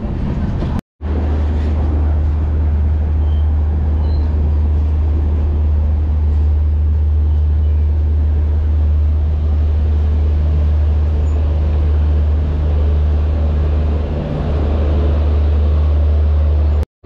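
Train running: a loud, steady low rumble with no clear rhythm.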